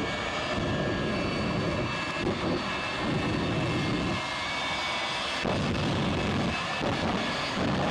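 Jet engine of a jet-powered car or truck running with a steady rushing roar and a high turbine whine, the low rumble swelling and easing every second or two.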